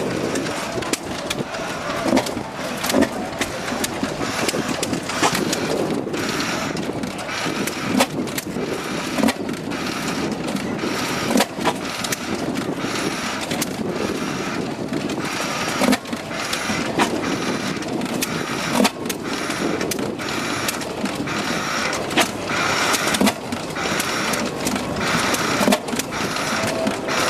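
Hit-and-miss engines running, with sharp firing pops every second or two at uneven intervals over a steady, rhythmic mechanical clatter.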